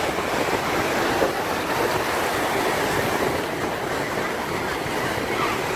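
Ocean surf breaking and washing onto the beach, a steady rush of waves.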